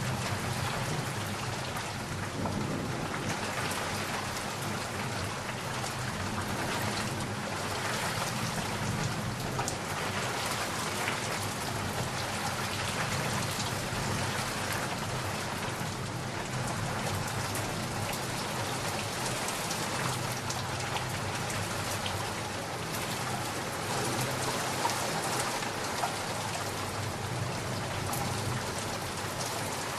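Steady rain falling on surfaces, with low rolling thunder at the start and again about twenty seconds in.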